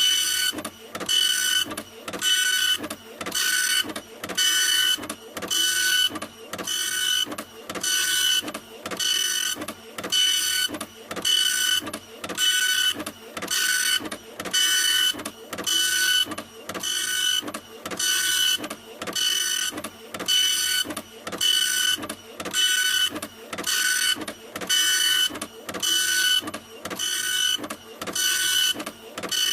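Printer running continuously, its mechanism sweeping in a steady rhythm of about one pass a second. Each pass carries a steady high motor whine over a hiss, with a short quieter gap between passes.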